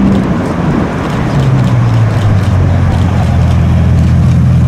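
Bugatti Chiron's quad-turbo W16 engine running at low revs as the car drives slowly past, a steady low drone.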